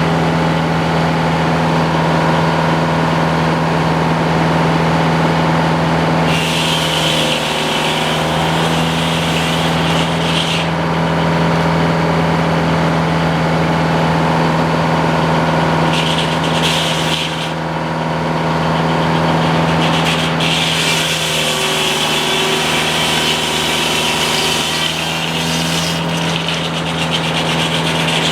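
Sawmill engine running steadily at a constant pitch. A higher hiss joins it three times: about six seconds in, briefly around sixteen seconds, and again from about twenty seconds until near the end.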